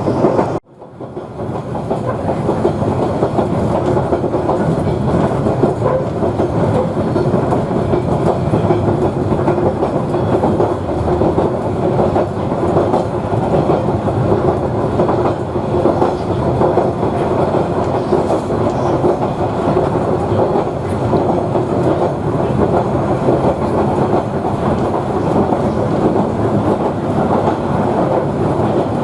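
2000 class railcar running steadily along the track, its wheels clicking over the rail joints. There is a brief drop-out about half a second in, after which the running noise fades back up.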